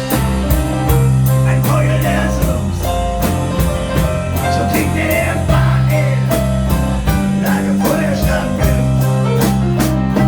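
Live band playing a blues number, with guitar, a steady low bass line and drums beating a regular rhythm.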